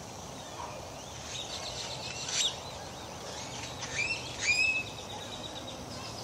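Birds calling over a steady background hiss: a run of quick chirps about two seconds in, then two rising whistled calls and a rapid trill about four seconds in.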